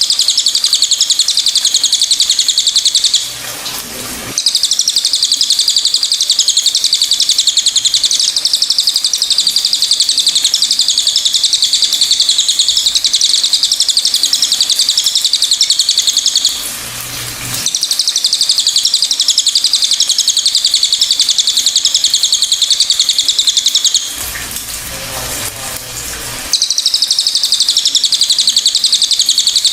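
Cililin songbird singing a long, loud, high-pitched song of rapid, evenly repeated chattering notes, broken by three short pauses.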